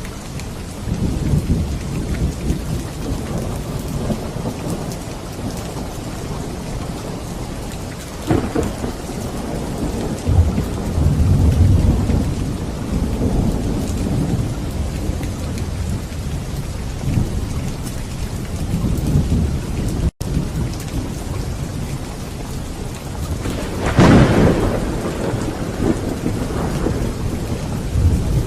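Steady rain with rolling thunder from a thunderstorm. A sharp thunderclap comes about eight seconds in and a louder one with a long rumble near the end; the sound cuts out for an instant about twenty seconds in.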